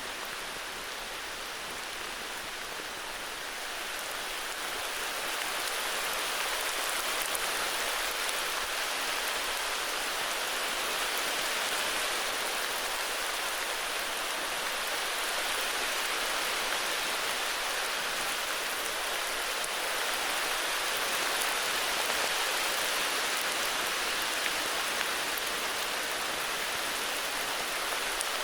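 Steady heavy rain falling, an even hiss with some drops pattering on surfaces, growing a little louder about four seconds in.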